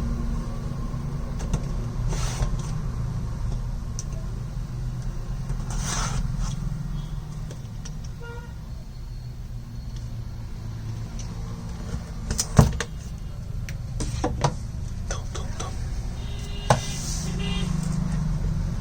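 A steady low rumble runs throughout, with scattered handling clicks and rustles over it. There is a sharp knock about twelve seconds in and a few lighter knocks after it.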